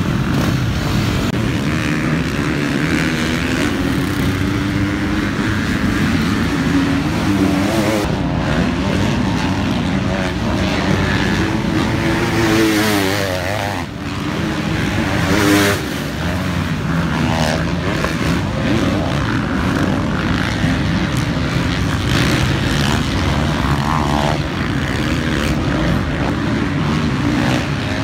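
Motocross dirt bike engine running hard round a track, its pitch rising and falling as the throttle opens and closes.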